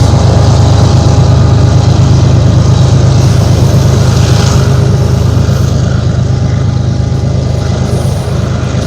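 Freight train rolling past close by: a loud, steady, deep rumble that eases slightly near the end.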